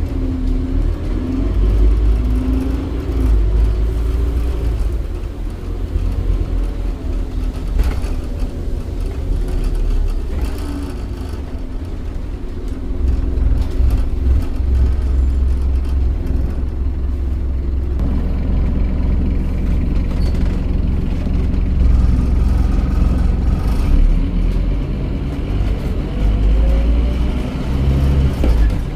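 Scania OmniCity bus's DC9 9.3-litre five-cylinder diesel engine, driving through a ZF automatic gearbox, running under way. Its pitch rises and falls as the bus pulls away, changes gear and eases off.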